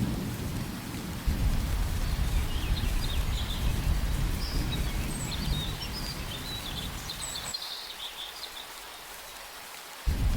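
Rain-and-thunder ambience: steady rain over a low thunder rumble, with faint high chirping through the middle. The rumble fades out after about seven and a half seconds, then the rain and rumble come back loudly just before the end.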